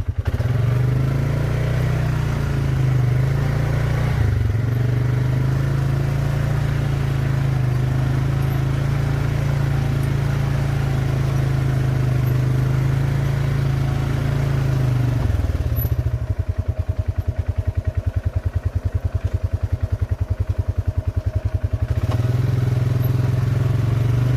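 Four-wheeler (ATV) engine running steadily under throttle. About two-thirds of the way through it drops to an even, pulsing idle for several seconds, then picks up again near the end.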